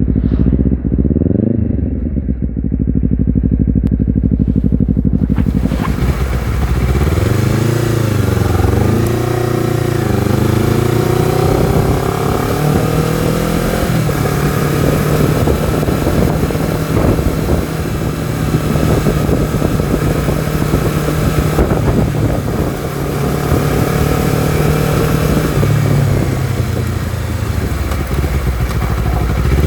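Honda CBR250RR's parallel-twin engine being ridden. A quick blip of revs comes in the first second, then from about five seconds in wind rush joins as the engine pitch climbs and drops repeatedly through the gears.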